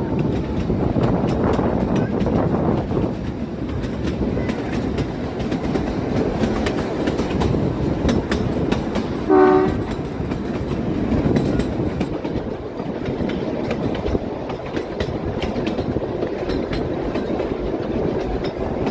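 Kalka–Shimla narrow-gauge train running, with a steady rumble and the wheels clicking over the rail joints. One short horn toot sounds about nine seconds in.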